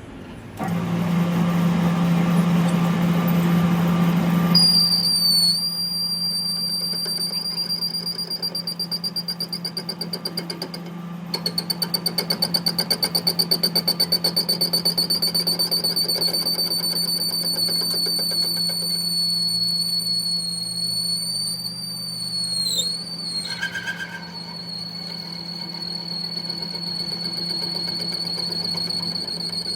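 Workshop machine running with a steady low hum, joined about four seconds in by a steady high-pitched whistling whine that wavers briefly a little after the middle.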